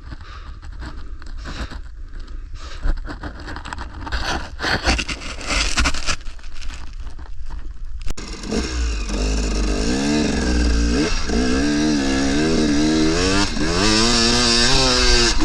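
Irregular scraping and rustling for the first half. About halfway through it changes abruptly to a KTM 300 two-stroke dirt bike engine revving, its pitch rising and falling with the throttle and climbing near the end.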